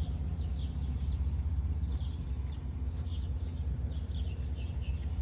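212cc single-cylinder four-stroke engine in a Club Car golf cart running steadily, sounding even and smooth, with birds chirping faintly in the background.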